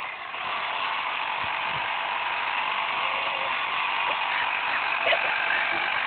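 Power saw running steadily as it cuts into the tree, a constant mechanical whir with no break.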